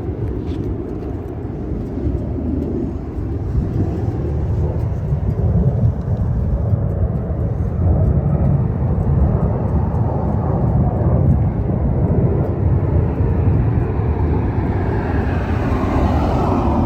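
Harley-Davidson Milwaukee-Eight V-twin running through a Rinehart exhaust under way, its deep pulsing growing louder over the first several seconds.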